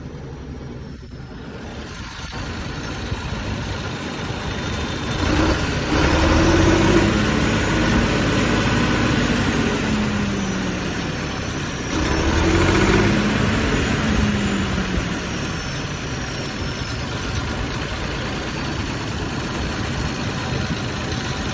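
Tractor diesel engine running, revved up and back down twice.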